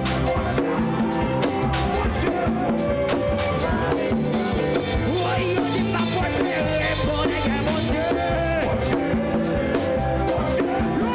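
Church band playing upbeat music with a drum kit keeping a steady beat over a bass line.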